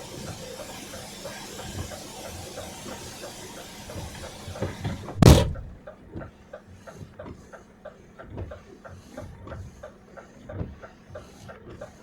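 A steady rushing hiss with regular faint ticking, about three a second. About five seconds in, one loud, brief knock with a rush cuts the hiss off, and the ticking carries on quieter.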